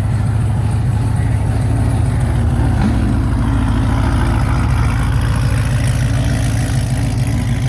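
Car engine idling loudly and steadily, a deep unbroken rumble with no revving.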